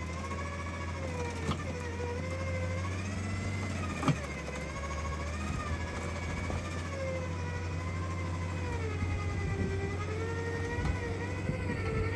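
Jeep Compass SUV running while crawling over an off-road course, its engine note slowly rising and falling with the throttle over a steady low drone. Two sharp knocks sound in the first few seconds.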